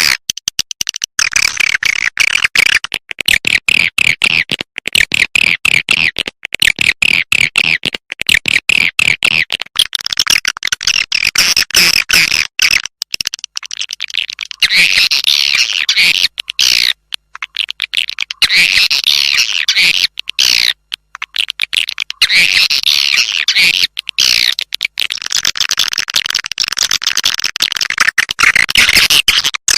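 Swiftlet lure call played back: dense, rapid twittering chirps in quick successive phrases with short breaks between them. This is the calling sound that swiftlet farmers play to draw swiftlets into a nest house.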